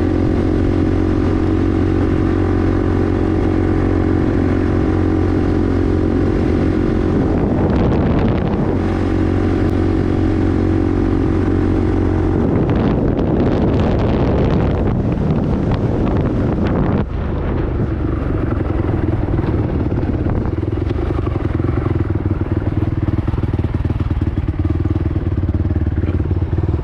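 Single-cylinder four-stroke engine of a Honda sport ATV running under way on a dirt trail, mostly steady. Its note changes with the throttle around 8 seconds in and again between about 13 and 17 seconds, where it briefly drops before settling back to a steady run.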